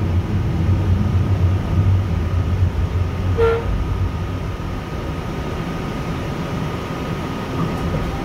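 Cabin noise of a UTDC ICTS Mark I Scarborough RT train braking to a stop at a station: its running rumble eases off over the second half. A brief tone sounds about three and a half seconds in.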